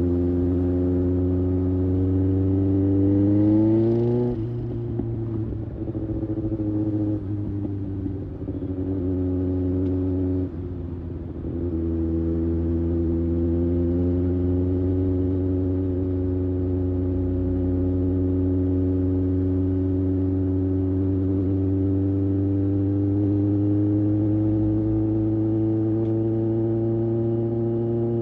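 2024 Kawasaki ZX-6R's inline-four engine under way on the highway: revs climb for about four seconds, drop suddenly as the throttle is rolled off, and the pitch dips and wavers again about ten seconds in. After that the engine settles into a steady cruise with its pitch slowly rising.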